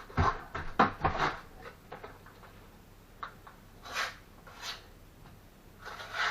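Knocks and scrapes of bricklaying work: three sharp knocks in the first second and a half, then a few softer, shorter scrapes.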